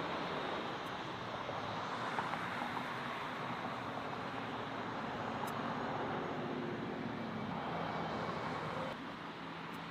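Jet airliner engines running as a plane moves past: a steady rushing roar that eases off about nine seconds in.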